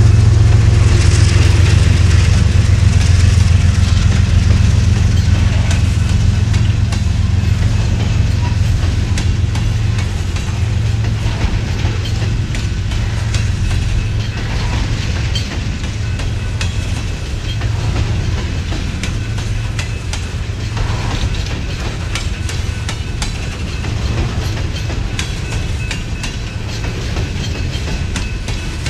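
Empty coal hoppers of a BNSF freight train rolling past, their wheels clicking steadily over the rail joints. The low diesel rumble of the lead locomotives, a GE ES44AC and an EMD SD70MAC, fades away over the first several seconds.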